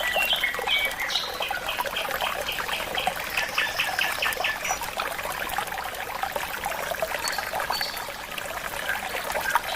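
Tropical forest birds singing over trickling water: a falling run of notes at the start, then a quick series of repeated notes at about five a second, with short high whistles near the end.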